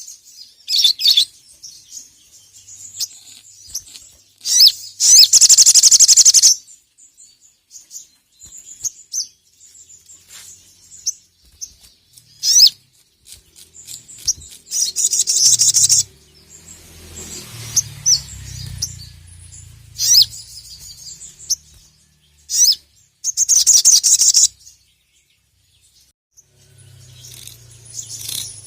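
Sogon (sogok ontong) sunbird singing: bursts of high, rapid chirping trills separated by short pauses, with the loudest trills about 5, 15, 20 and 23 seconds in. This is a bird singing in full, energetic song ('gacor') to call out a rival.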